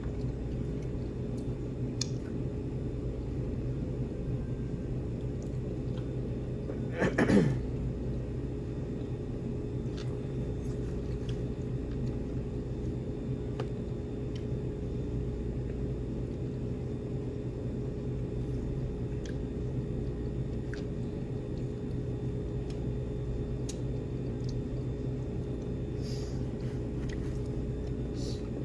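Steady low room hum with scattered faint clicks and taps of people eating at a table. About seven seconds in, a short louder sound that falls in pitch.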